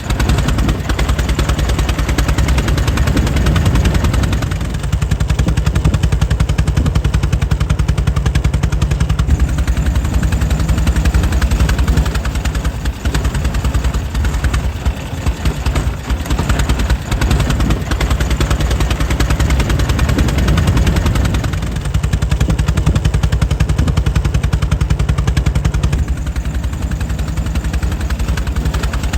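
Air-cooled 1904 Mitchell engine running steadily, a rapid, even, rhythmic firing beat.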